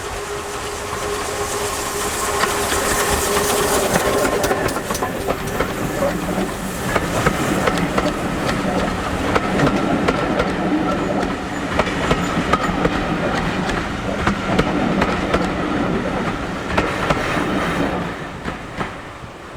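Train passing on a GWR-style heritage line: a steady running rumble with the wheels clicking over rail joints, growing louder over the first few seconds, then dropping away near the end.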